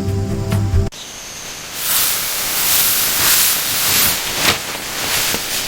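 Music cuts off about a second in. A loud, steady hiss follows from about two seconds in, from an agitated giant snake.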